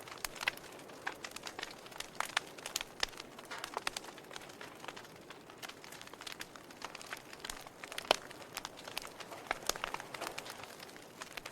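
Wood fire in a fireplace crackling, with irregular sharp pops and snaps over a soft steady hiss; one louder pop about eight seconds in.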